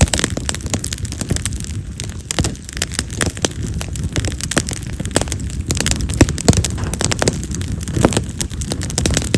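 Split wild cherry (yamazakura) firewood burning in an open fire, crackling with many sharp, irregular pops over the low rush of the flames. A few of the pops are loud and sharp, the firecracker-like snapping this wood is known for.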